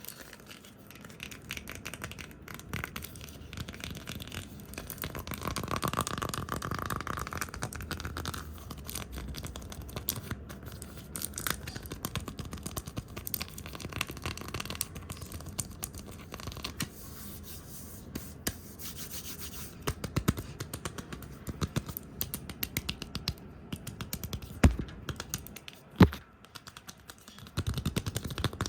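Fast, rough brushing and scratching right at the microphone, dense with small clicks and taps, with a few sharp, loud taps near the end.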